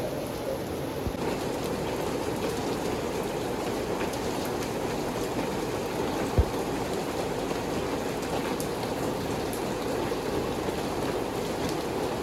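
Steady rain falling, with scattered faint drip ticks and a single dull low thump about six seconds in.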